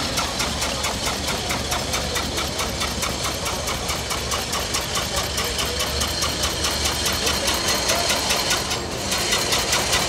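Single-cylinder engine of a 1902 veteran car, about 1600 cc, running at idle with a fast, even chugging beat.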